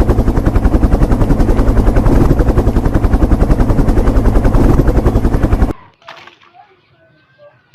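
Loud, rapid machine-gun-like rattle of about a dozen pulses a second that cuts off suddenly near the end, leaving only faint scattered sounds.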